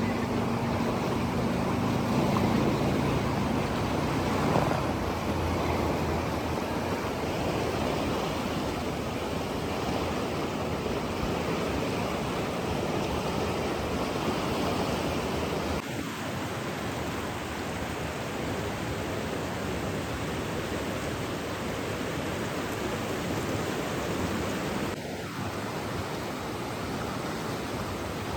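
Steady rushing of flowing water, an even hiss, with a low hum underneath that fades out over the first few seconds. The sound shifts slightly, a little quieter, about sixteen and again about twenty-five seconds in.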